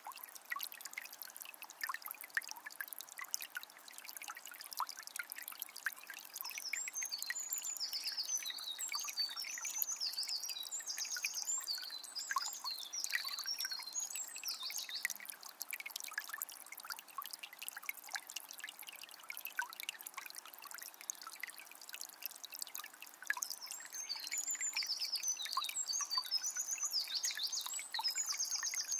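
Calm forest river running over shallows, with a steady trickling, splashing rush of water. A small songbird sings quick chirping phrases from about seven to fifteen seconds in, and again near the end.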